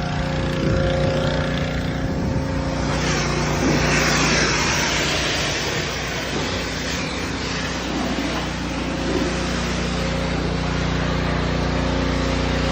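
Gas pressure washer engine running steadily while the spray hisses against the truck's body, loudest in the first half.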